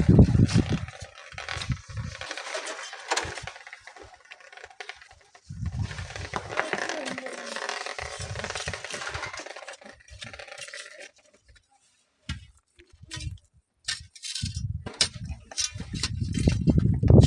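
Strong wind gusts buffeting the microphone in surges, dying away for a few seconds in the middle, with scattered scraping and clinking over them.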